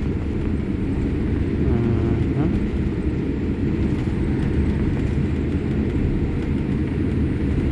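Steady low rumble of a Boeing 787-8 Dreamliner heard from inside the passenger cabin while it taxis and turns on the runway turn pad, engines at taxi power ahead of takeoff. A faint voice is heard briefly about two seconds in.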